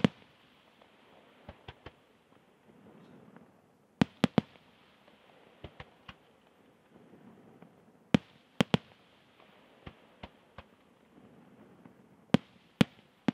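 Aerial firework shells bursting: loud, sharp bangs in groups of two or three about every four seconds, with fainter reports in between.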